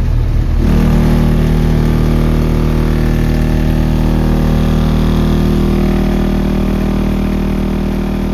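Car audio subwoofers playing a steady bass tone for an SPL meter reading, a 'burp' that starts abruptly about a second in and holds at one pitch with buzzing overtones.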